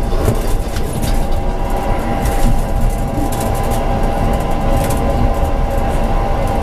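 Tram running along the track, heard from inside the driver's cab: a steady low rumble of wheels on rails with a steady whine over it and scattered light clicks.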